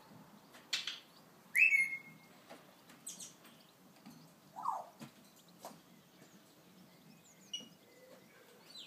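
A few scattered bird whistles and chirps. The loudest, about a second and a half in, slides sharply down and then holds a clear note, and a shorter falling call comes near the middle.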